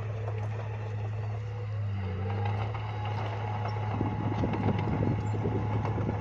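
Bulldozer's diesel engine running steadily with a low hum. About four seconds in, a dense rattling clatter of the machine working rises over it.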